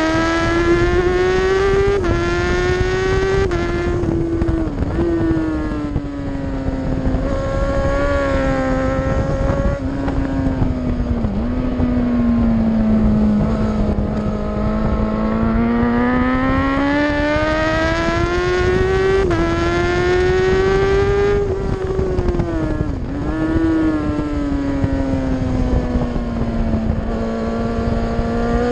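Superbike engine running hard on a race track, heard from a camera mounted on the bike, over rough wind noise. The engine note climbs steadily under acceleration, drops sharply at quick upshifts, and falls with short blips where the rider brakes and downshifts, several times.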